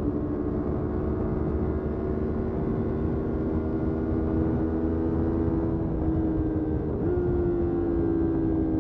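Motorcycle engine running under way, its pitch sinking slowly and then stepping briefly up about seven seconds in, over steady wind and road rumble.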